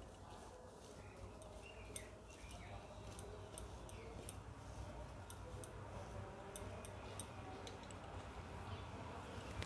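Faint eating sounds: rice being mixed and picked up by hand from a plate, and chewing, heard as scattered small clicks and smacks over a steady low hum.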